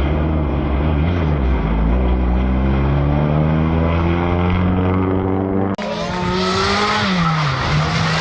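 Rally car engine pulling hard, its pitch climbing steadily. About six seconds in it cuts to another rally car, whose revs drop and then pick up again.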